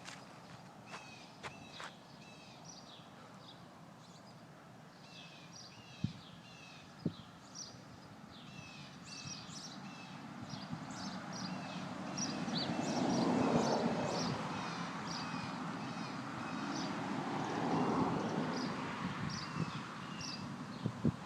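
Small birds chirping over and over, with a long low rumble of distant thunder that swells up about halfway through and rolls again near the end.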